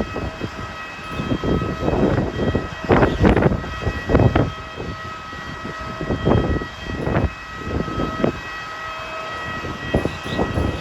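Strong gusty wind buffeting the microphone in irregular blasts, over a steady high-pitched machine whine at an airliner's stand.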